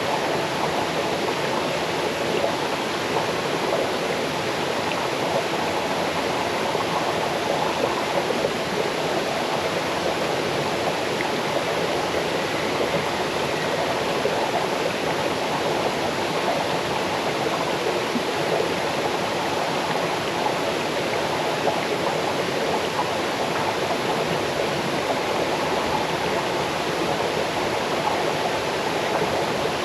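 Small forest waterfall cascading over stones into a stream, a steady rushing flow of water.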